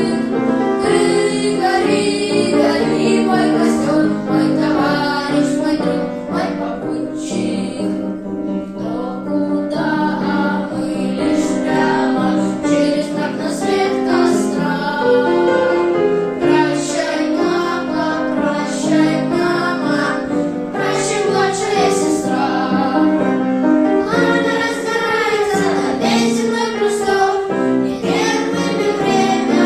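A group of young voices singing a song with instrumental backing.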